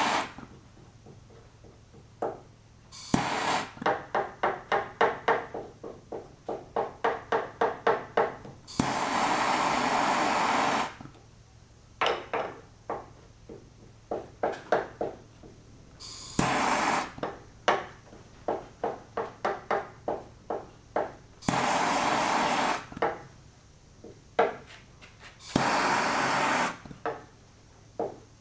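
Lead body solder being worked on a steel trunk lid: bursts of torch hiss, each lasting a second or two, alternate with runs of quick rhythmic strokes, about three a second, as a wooden paddle pats and smooths the softened lead.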